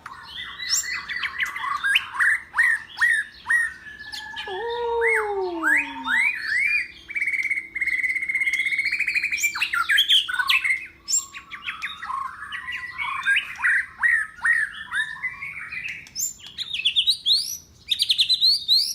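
White-rumped shama singing a long, varied song of rapid chirps, swooping whistles and trills, with a lower falling whistle about five seconds in.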